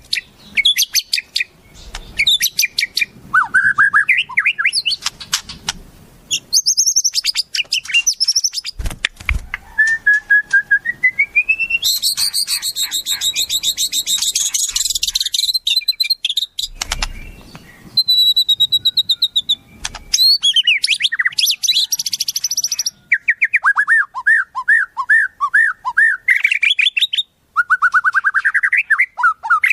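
Wild songbirds calling and singing in a rapid string of varied phrases: fast chattering trills, a rising whistle, a dense buzzy trill, and runs of quick repeated notes that dip and rise. It is a mix of wild-bird song used as song material for training white-rumped shamas.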